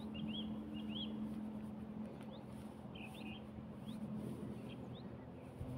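Small birds calling: a scattering of short, rising chirps, over a steady low hum.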